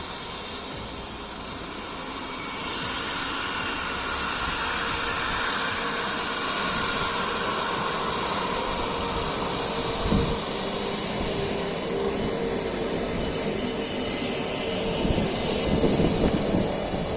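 Jet airliner engines passing, the noise swelling over the first few seconds with a whine that falls in pitch. Brief low thumps come about ten seconds in and again near the end.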